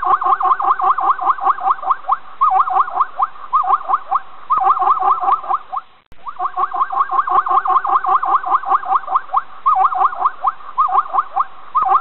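Plains zebra calling: long runs of rapid, high yelping barks, about eight a second, broken by short pauses and one brief silent break about six seconds in.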